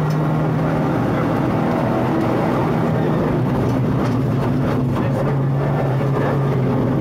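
Rally car engine running hard, heard from inside the cabin, with its note holding steady, wavering for a few seconds in the middle, then steady again.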